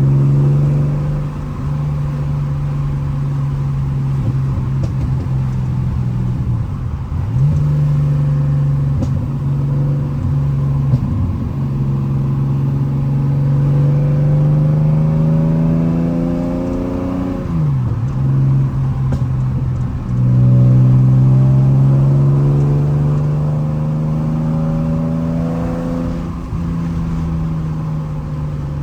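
TVR Speed Six straight-six, bored out to 4.5 litres in Supersport tune, pulling the car along on the road. Its note climbs slowly for several seconds at a time and drops sharply at each gear change, about four times.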